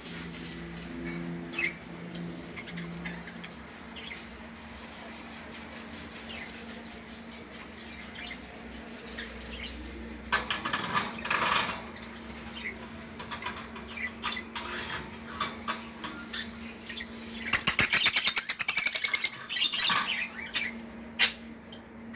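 Budgerigars chirping and chattering, with a louder spell about halfway through. Near the end comes the loudest sound: a quick run of rapid fluttering strokes, like wings flapping, lasting about two seconds. A faint steady hum runs beneath.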